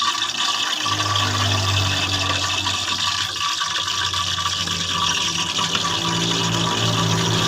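Breaded chicken feet deep-frying in hot cooking oil: a steady, dense sizzle. A low hum comes in about a second in.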